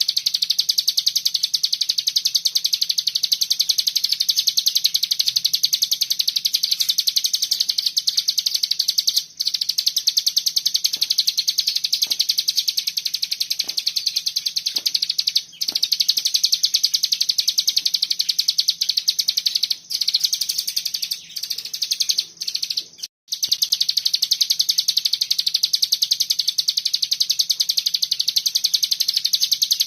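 Hill prinia (ciblek gunung) singing its 'ngebren' song: a dense, very rapid high chatter of notes, held in long unbroken runs with a few short breaks, and a choppier stretch about three quarters of the way through.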